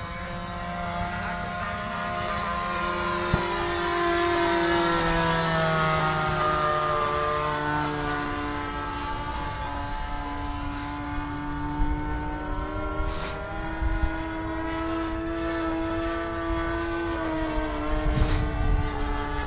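Radio-controlled model airplane engine droning overhead, its pitch slowly falling as the plane passes, loudest about a quarter of the way in, with a few brief clicks later on.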